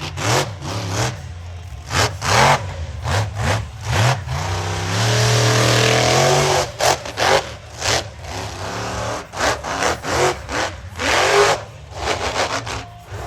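Monster truck engine revved in short, repeated throttle blasts, with one held full-throttle run of about two seconds partway through.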